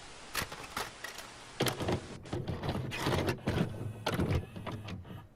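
A series of dull thumps and knocks over a steady hiss.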